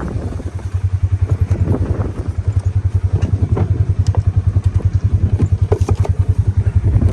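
A vehicle engine running at low speed with an even, low throb, and occasional light knocks and clatter over it.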